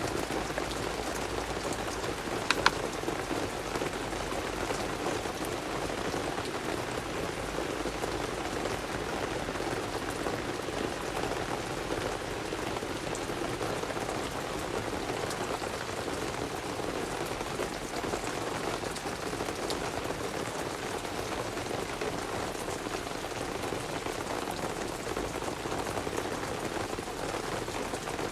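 Steady rain falling, an even hiss of drops throughout, with one sharp click about two and a half seconds in.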